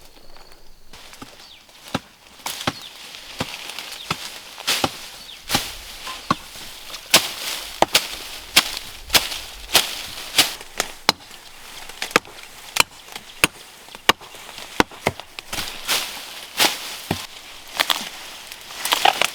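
Steady rhythmic chopping with a hand tool, about one and a half sharp strokes a second.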